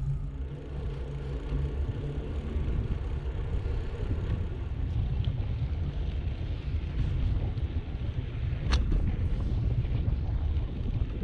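Wind buffeting the microphone over the low rumble of a bicycle rolling along, with one sharp click about three-quarters of the way through.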